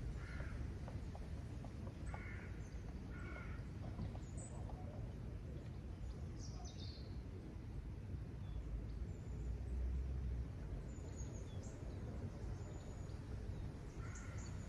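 Riverside birds calling: two short harsh calls about a second apart early on, then a few faint high chirps, over a steady low rumble.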